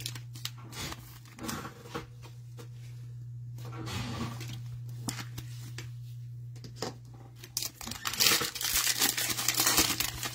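Foil trading-card pack wrapper being torn open and crinkled, with scattered light clicks of cards being handled and a louder, longer stretch of tearing and crinkling near the end. A steady low hum runs underneath.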